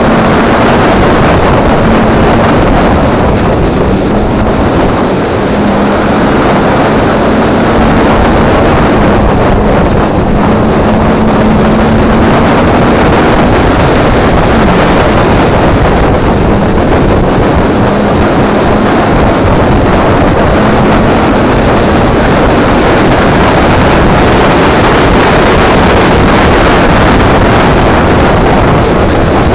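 Peugeot 106 1.6 16v's naturally aspirated four-cylinder engine, driven hard on track and heard onboard as a loud, steady engine note, mixed with wind and road noise on the microphone.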